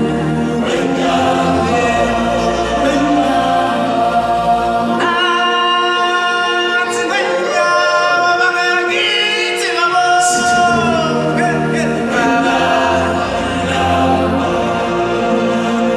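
A group of singers singing in close a cappella harmony, several voices holding and moving chords together; the low voices drop out for a few seconds in the middle.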